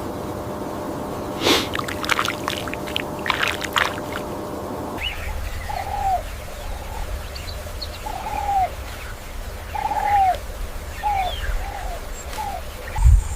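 Short, low bird calls repeated about once a second, each one dropping in pitch at its end, over a low rumble. Before the calls, after an abrupt change in the sound, there are a few seconds of steady hiss with scattered clicks and knocks.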